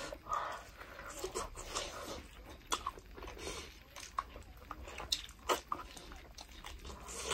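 Close-up eating sounds: chewing and biting of goat meat off the bone, with scattered wet lip smacks and clicks.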